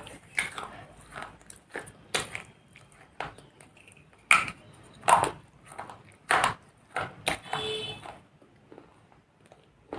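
Dry baked-clay pot pieces being bitten and chewed, a sharp crunch every second or so. The pieces are eaten dry, not wetted, so each bite cracks loudly. A brief ringing clink sounds near the end.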